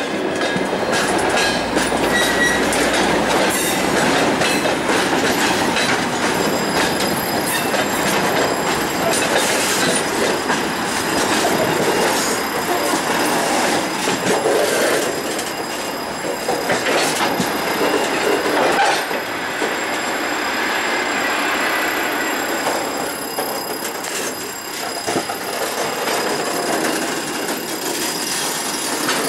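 Freight gondola wagons rolling past close by, their steel wheels clattering and knocking over the rail joints, with a thin high squeal from the wheels on the rails.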